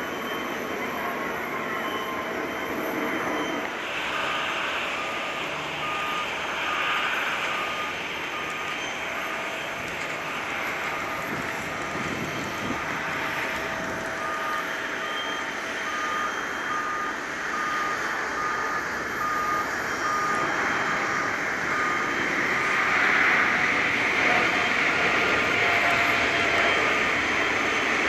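Boeing 777-300ER's GE90 turbofans at takeoff power as the jet starts its takeoff, the engine noise building louder toward the end. A short beep repeats about every two-thirds of a second through most of it.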